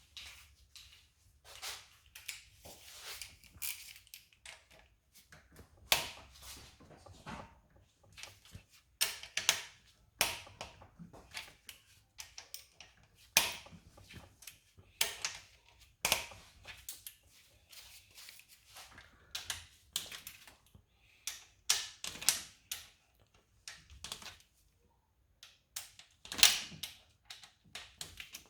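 Irregular metallic clicks and knocks of hand tools, bolts and parts as the camshaft bearing caps are unbolted and lifted off a Toyota 2AZ-FE cylinder head.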